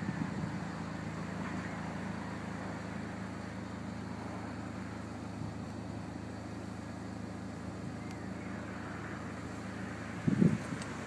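A vehicle engine running steadily with a low hum, and a brief louder low sound near the end.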